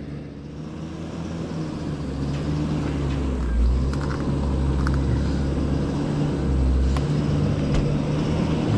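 Vehicle engine running at low speed while the vehicle is slowly turned and maneuvered, its hum rising in level over the first couple of seconds, with a few faint clicks.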